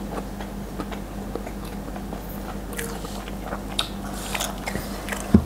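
Close-miked chewing and biting of food, with soft, irregular crunches and small clicks scattered through, over a faint steady electrical hum.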